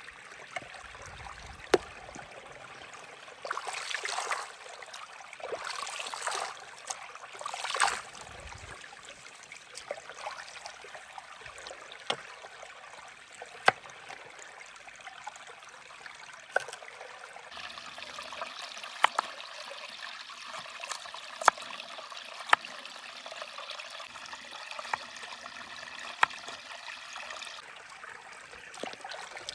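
Steady rushing of running water with scattered sharp clicks and crackles, and louder rustling swells about 4, 6 and 8 seconds in. A brighter hiss joins from about 17 to 27 seconds in.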